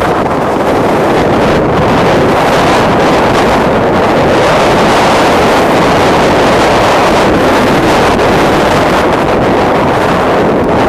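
Storm-force mountain wind buffeting the microphone: a loud, continuous rushing roar that swells and eases with the gusts.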